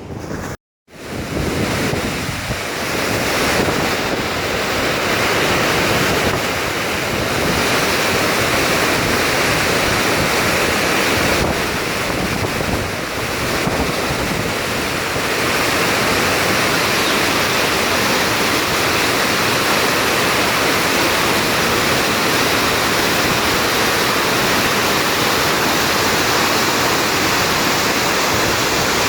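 Steady, loud rush of floodwater pouring down a spillway waterfall, with a brief cut to silence just under a second in.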